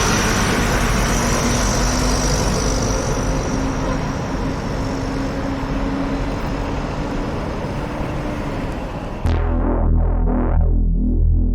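A steady rushing noise of heavy rain and vehicle traffic. About nine seconds in it cuts off abruptly to electronic synthesizer music with a steady beat.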